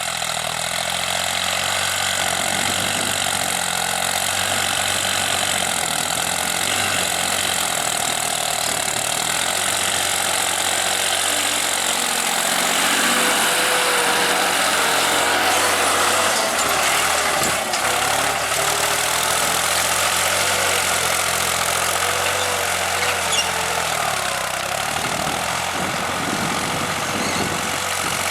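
New Holland TT55 tractor's diesel engine running steadily, its note shifting a little partway through.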